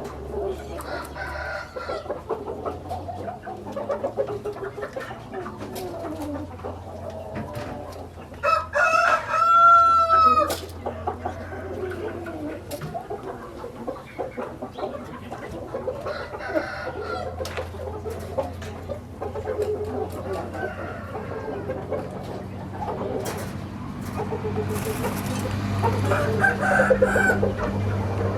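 Roosters clucking and calling throughout, with one loud crow about nine seconds in lasting about two seconds, and more calling building near the end.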